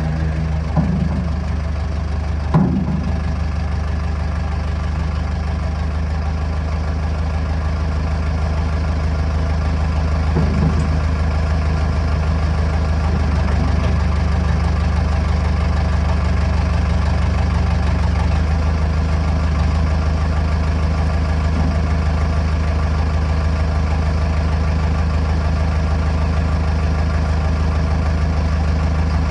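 Backhoe's diesel engine running steadily, with two short knocks about one and two and a half seconds in.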